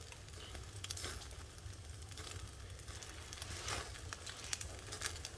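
Skewered pork belly sizzling over a wood fire, with scattered crackles and pops from the fat and the burning wood.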